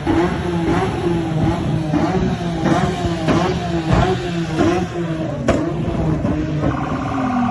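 Car engines revving in short, repeated blips over a steady engine note, with a brief higher pitched tone near the end.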